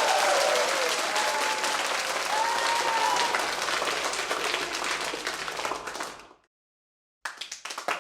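Crowd applauding, with a few scattered cheers and whoops early on over the dense clapping, fading out about six seconds in. After about a second of silence, a new round of clapping starts near the end.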